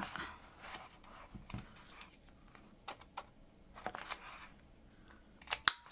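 Paper journal pages being handled and gathered together, with scattered light clicks and taps and a sharper pair of clicks near the end.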